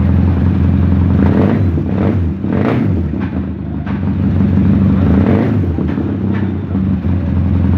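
Bajaj CT100 single-cylinder four-stroke motorcycle engine running steadily after an overhaul, with a few short, sharper sounds over the steady hum.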